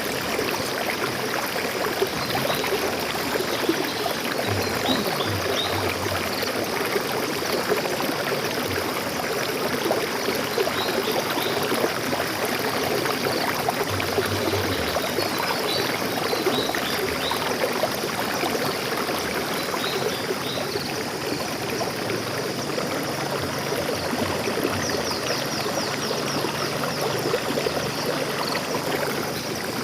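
Stream water flowing steadily, with faint high bird chirps scattered through and a quick run of high bird notes near the end.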